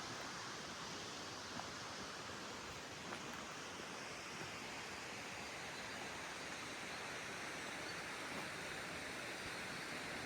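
Steady rush of flowing water, a mountain stream or waterfall, as an even hiss without change.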